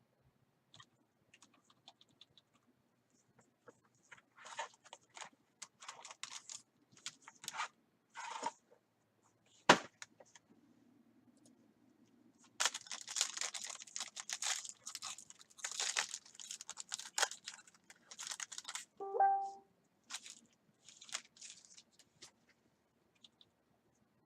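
Plastic wrap crinkling and tearing in irregular bursts as a sealed trading-card box is unwrapped and opened by hand, with one sharp knock about ten seconds in and a brief squeak later on.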